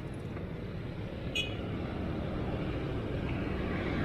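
Steady road traffic noise heard while riding a bicycle along a highway. A brief high-pitched chirp comes about a second and a half in, and the noise grows a little louder near the end.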